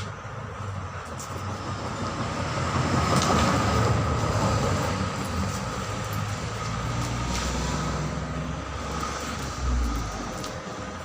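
A heavy road vehicle passing close by: a low rumble of engine and tyres that swells to its loudest three to four seconds in, then slowly fades. A short low thump comes near the end.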